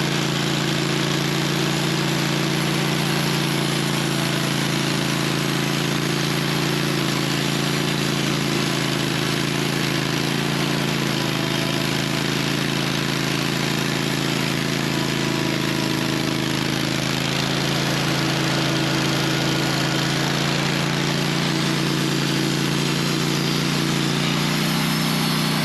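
Sawmill engine running at a steady speed.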